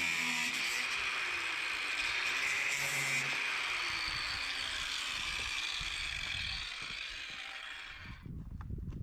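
Angle grinder with a cutoff wheel cutting the sharp corners off steel mounting brackets: a steady, high-pitched grinding whine with a hiss of sparks. It stops suddenly about eight seconds in, leaving low handling noise.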